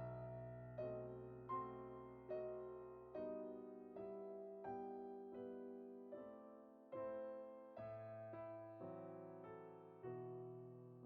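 Soft background piano music: slow, gentle notes and chords struck about once or twice a second, each left to ring and fade.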